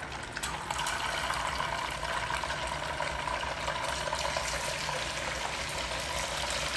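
Coated pork tenderloin pieces sizzling and crackling in hot oil in a stainless steel pan as they are dropped in one by one. The crackle thickens about half a second in and then holds steady.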